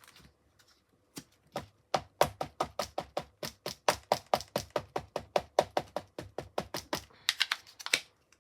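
Rapid, even light tapping on a large rubber stamp while stamping with black ink, about five taps a second, starting about two seconds in and stopping near the end.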